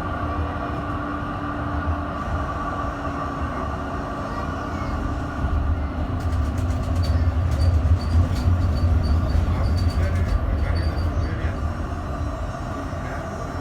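M8C tram running along the track with a steady rumble of motors and wheels. It gets louder about halfway through, with a run of quick clicks and short high chirps from the wheels on the rails.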